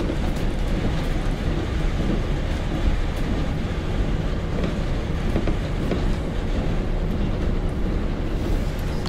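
KiHa 40 diesel railcar under way, heard from inside the car: a steady rumble of the diesel engine and the wheels running on the rails.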